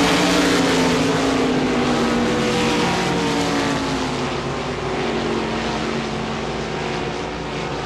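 RaceSaver sprint cars' 305 V8 engines running at racing speed on a dirt oval. Several engine notes overlap, slowly dropping in pitch and fading a little as the pack moves away.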